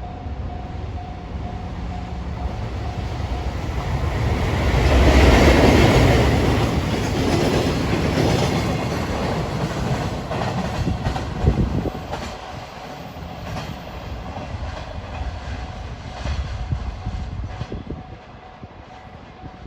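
EF510 electric locomotive hauling a train past a level crossing: it swells to its loudest about five seconds in, then the wheels clack over the rail joints as the cars roll by. A steady crossing warning bell sounds at the start and again near the end.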